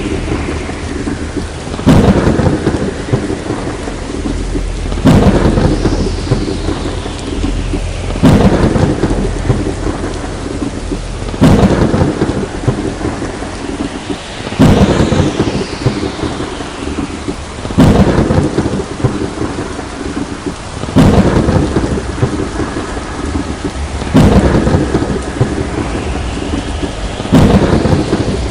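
Thunderstorm: steady heavy rain with thunder cracking about every three seconds, nine times, each crack trailing off into a rumble. The claps come at such even intervals that they repeat like a loop.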